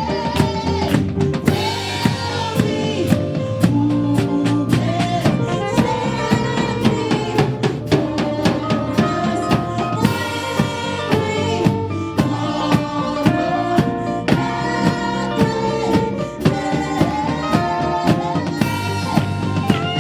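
Live gospel band playing an instrumental passage: a drum kit keeps a steady beat of regular hits under sustained chords.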